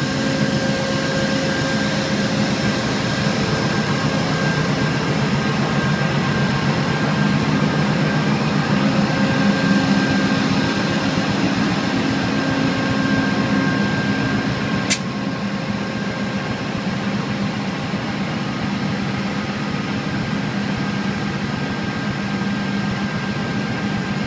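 Amtrak GE P42DC Genesis diesel locomotive running steadily at a standstill: a loud engine drone with several steady whines. A sharp click comes about fifteen seconds in, and one high whine stops with it.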